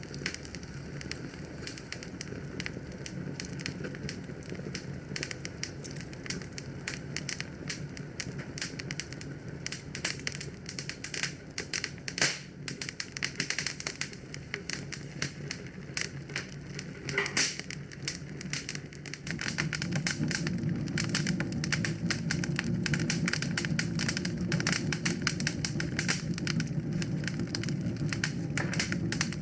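Wood fire crackling in a fireplace: a dense run of small pops and ticks, with two louder snaps about 12 and 17 seconds in. About two-thirds of the way through, a low steady rumble grows louder under the crackling.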